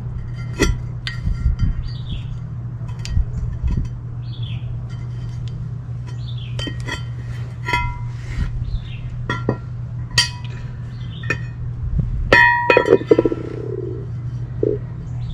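Metal clinks and taps on a steel brake rotor, several of them ringing briefly, with the loudest cluster about twelve seconds in, as a rubber plug is moved over to the new rotor. A steady low hum runs underneath.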